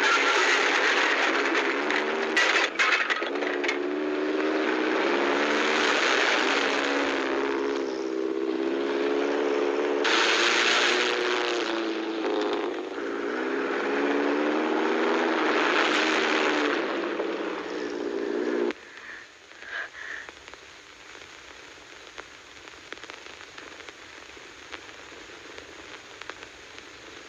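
Old film soundtrack of a Ford Capri's engine revving up and down, with surges of tyre and gravel noise as the car slides on loose dirt. About two thirds of the way in it cuts off suddenly, leaving only faint crackle and hiss.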